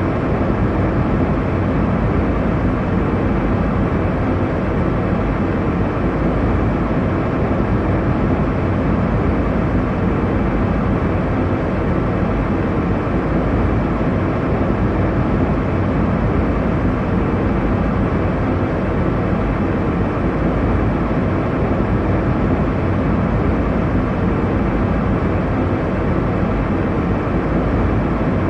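Steady airliner cabin noise in cruise: a constant low rush of engine and airflow, heaviest in the low end and with no changes.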